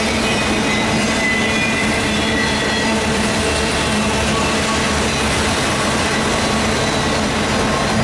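Freight train of autorack cars rolling past at steady speed: a continuous rumble and rattle of steel wheels on rail, with thin high squealing tones from the wheels.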